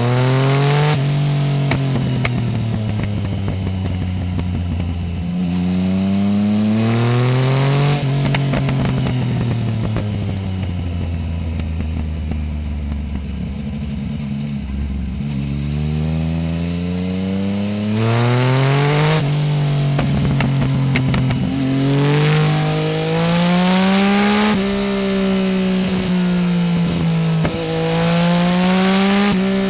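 Yamaha Tracer 900 GT's three-cylinder engine through a full Roads Italia aftermarket exhaust with no dB killer, heard close from under the seat. It pulls up through the gears at the start, the revs fall slowly for several seconds in the middle, then it accelerates hard again through several upshifts, each rise in pitch cut off by a sudden drop at the change.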